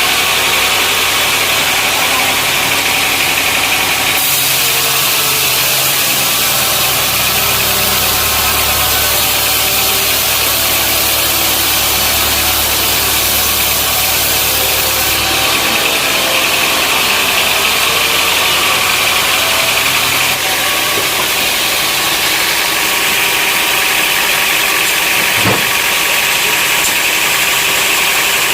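Sawmill machinery running steadily. A deeper low hum joins in about four seconds in and drops out about halfway through.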